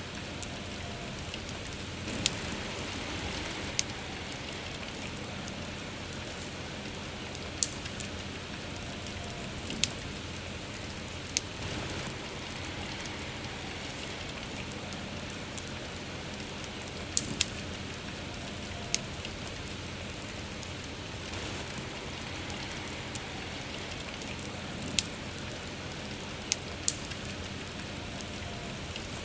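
Steady rain hissing, with a wood fire crackling over it: sharp, irregular pops of burning wood every couple of seconds.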